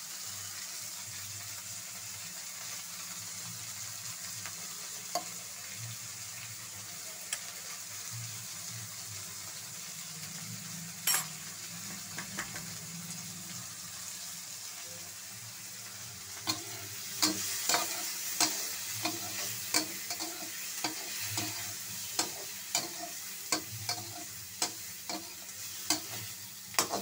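Onions, tomato and paneer sizzling in hot oil in an aluminium kadai. A single knock comes near the middle, and in the last third a metal spatula stirs, scraping and knocking against the pan roughly every half second.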